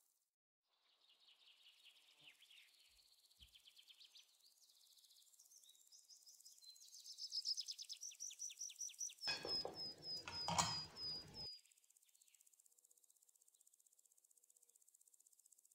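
Birds chirping and trilling in quick runs of high notes, building up and loudest about two-thirds in, where a harsher, noisier call joins for about two seconds and then stops suddenly. Faint hiss remains after.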